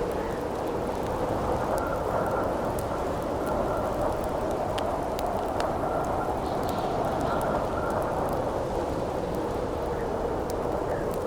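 Steady howling wind whose pitch slowly wavers, with a campfire crackling underneath in small scattered pops.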